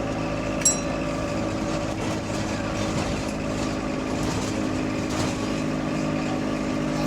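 Diesel engine of a double-decker bus running at a steady, unchanging pitch, with the bus in limp mode, which the title puts down to a bad turbo. A short, sharp high click or ding sounds once, a little under a second in.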